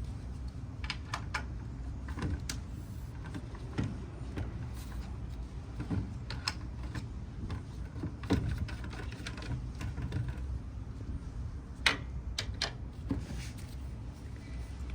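Scattered light clicks and taps of plastic containers being handled, with the sharpest click about twelve seconds in, over a low steady hum.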